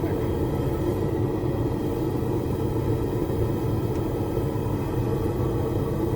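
Gas forge burners running with a steady, even rumble while the forge heats metal.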